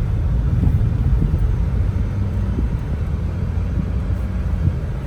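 Infiniti G35's V6 engine running, a steady low rumble.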